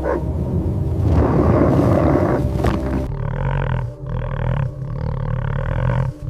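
Loud, rough animal roaring and growling: a dense stretch for about three seconds, then choppier roars with short breaks about four and six seconds in.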